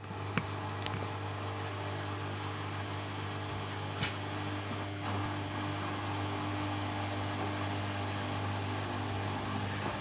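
LG washing machine running in a suds-lock cycle: a steady motor hum with a few light clicks, the first two within the first second and another about four seconds in.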